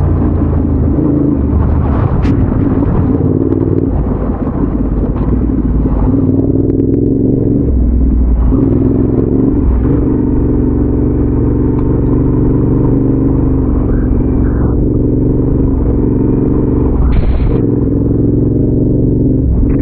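Adventure motorcycle engine running under load, its note shifting up and down several times with throttle and gear changes.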